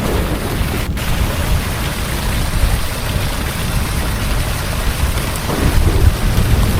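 Heavy rain pouring steadily, with a low rolling rumble of thunder underneath that swells a little near the end.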